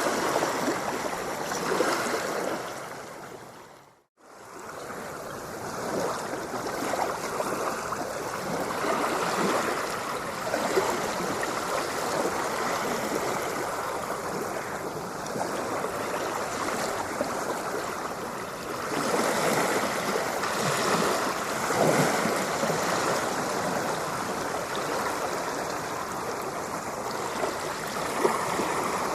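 Continuous rushing, splashing water with uneven surges. About four seconds in it fades briefly to silence and straight back up, like a loop splice, and it swells louder for a few seconds about two thirds of the way through.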